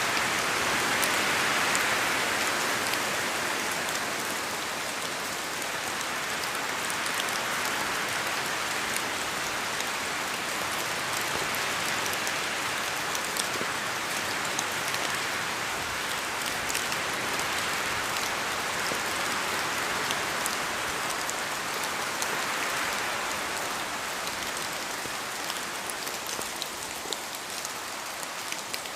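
Steady rain falling in a forest, with many fine drop ticks through a dense hiss that swells and eases slowly, as with gusts of wind.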